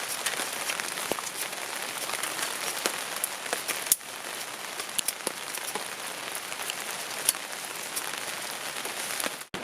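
Steady rain, with many separate drops ticking sharply on a surface over an even hiss. The sound dips briefly about four seconds in and cuts out for a moment near the end.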